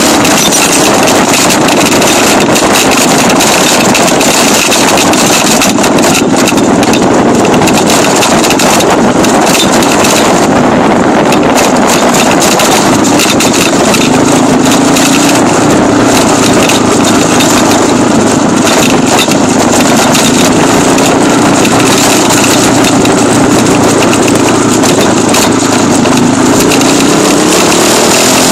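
Dirt bike engine running continuously and very loudly, its pitch wandering up and down with the throttle and climbing near the end.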